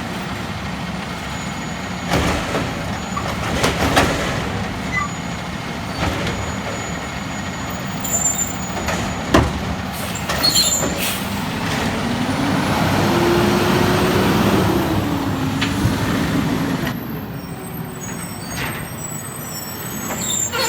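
Peterbilt 320 garbage truck with a Labrie Automizer side-loader, its engine running steadily and punctuated by several sharp knocks and clanks. About midway the engine pitch rises and falls back over a few seconds.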